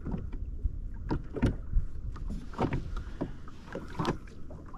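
Small waves slapping and knocking irregularly against the hull of a drifting Sea-Doo FishPro jetski, over a low rumble.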